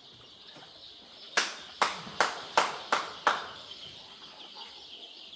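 Six sharp knocks in quick succession, about two a second, each ringing off briefly. Behind them is a steady chorus of young chicks cheeping.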